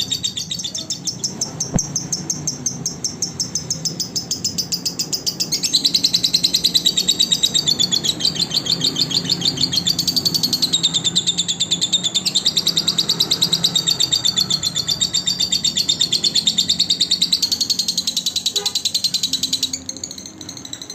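Lovebird chattering in a long unbroken run of rapid, high chirps. It grows louder about six seconds in and fades near the end.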